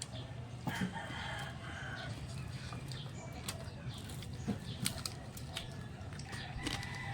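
Close-up eating of crispy pata (deep-fried pork knuckle): a run of sharp crunches and chewing clicks. Chickens cluck a few times in the background.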